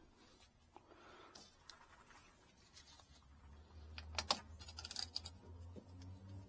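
Light clicks and rattles of small hard objects being handled, with a quick run of clicks about four seconds in, and a low steady hum that comes in about halfway through.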